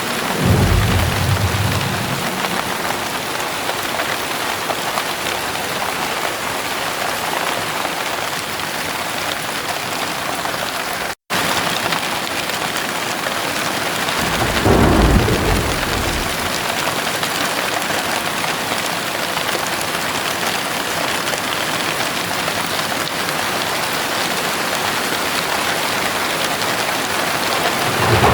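Heavy rain pouring in a steady hiss, with two low thunder rumbles, one just after the start and one about halfway through. The sound cuts out for a split second about eleven seconds in.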